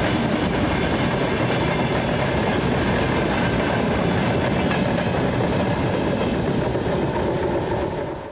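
Train rolling past close by, its wheels clattering steadily over the rails, the sound easing slightly near the end.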